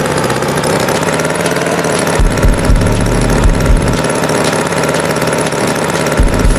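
Tractor engine running with an uneven low rumble.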